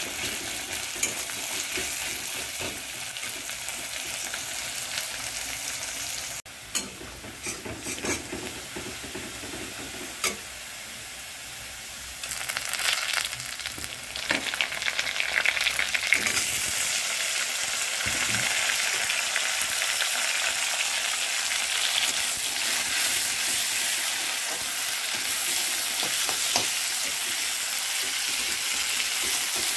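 Sliced onions sizzling in hot oil in a wok while a spatula stirs and scrapes them, with a few sharp taps of the spatula on the pan. The sizzling grows louder about halfway through.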